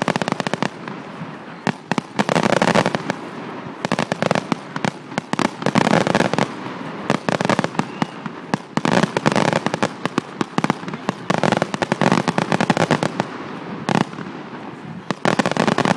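Fireworks display: dense volleys of rapid bangs and crackles, coming in repeated flurries every couple of seconds.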